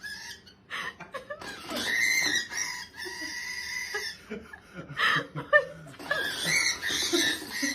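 Pet parrot screeching and squawking in long, repeated calls, an agitated bird throwing a fit that the owner puts down to hormones.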